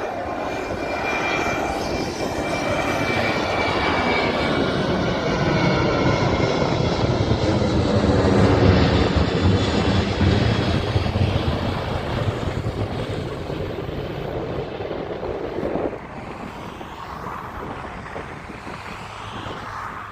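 An aircraft's engines passing close by. The noise builds to a peak about halfway through, with a pitch that glides downward as it passes, then fades, dropping off sharply about four seconds before the end.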